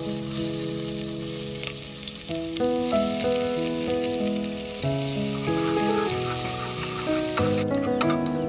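Minced garlic, shallot and chopped red chilli sizzling as they hit hot oil in an aluminium pot. The sizzle starts suddenly and dies down near the end, giving way to clicks of chopsticks stirring in the pot. Soft piano music plays underneath.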